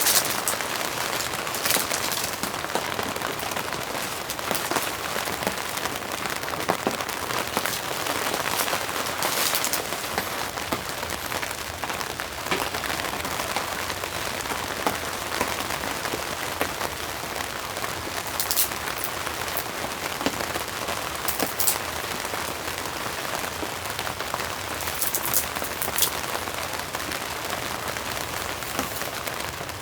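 Steady rain falling, with scattered louder drops striking close by.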